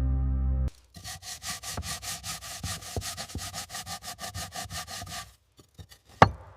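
Rapid, even back-and-forth abrasive strokes, about seven a second, like hand sanding or scraping. They stop about a second before a short, sharp falling swish near the end. A steady musical drone cuts off under a second in.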